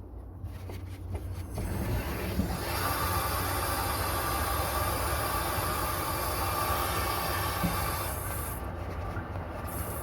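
Water rushing through a gas water heater's plumbing as the valve is opened during a sediment flush: a steady hiss with a faint whine, building up over the first couple of seconds.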